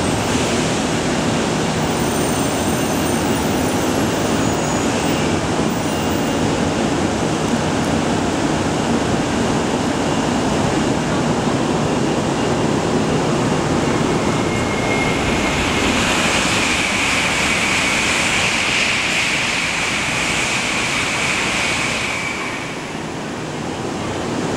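Shinkansen 100 series train running into the station platform and slowing to a stop, a steady loud rumble of wheels and running gear. A high squeal of the brakes sets in a little past the middle and lasts several seconds, fading as the train halts.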